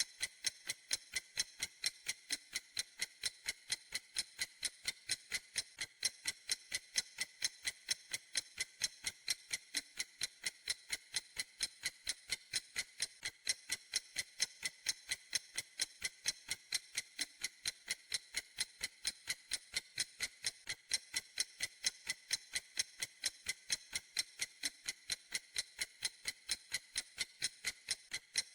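Clock ticking steadily, crisp, even ticks several times a second with no change in pace.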